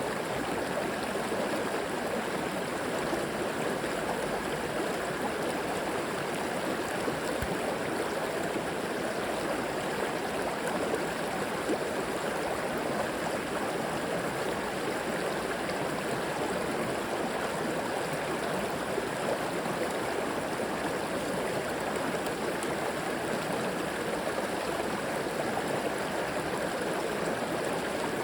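Flowing river water rushing and gurgling steadily, an even wash of sound with no breaks.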